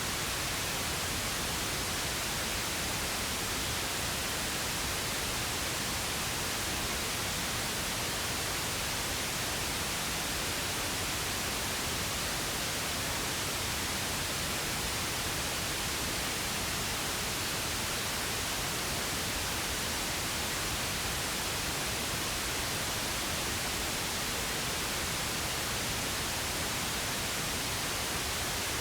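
Steady synthetic pink noise: an even hiss across all pitches, unchanging in level.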